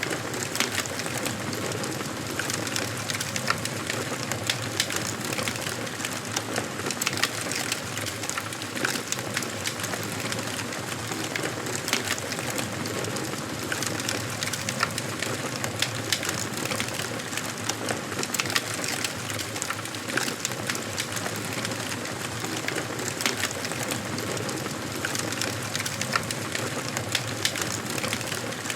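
Wood fire burning in a fireplace: a steady hiss with frequent sharp crackles and pops of the burning logs.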